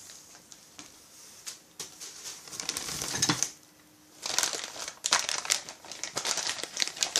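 Packaging crinkling and rustling as a chainsaw kit part is unwrapped by hand: a brief rustle, a short pause, then steady crackling from a little past halfway.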